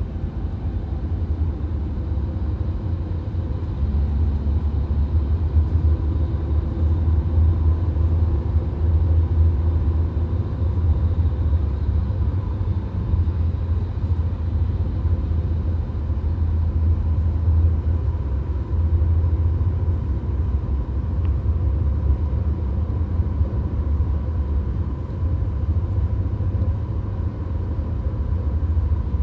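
Road and engine noise inside a VW Golf's cabin at highway speed: a steady low rumble that grows a little louder about four seconds in.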